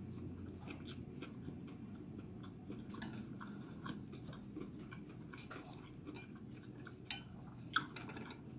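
Faint close-miked chewing of a vegetable sushi roll: soft, irregular wet mouth clicks and light crunches, with two sharper clicks near the end, over a low steady room hum.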